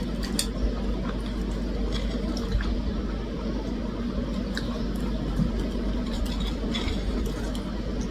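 Steady low hum with scattered light clicks and smacks of eating.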